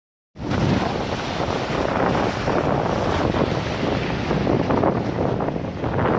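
Wind buffeting the microphone: a steady, dense rushing rumble that starts abruptly about a third of a second in.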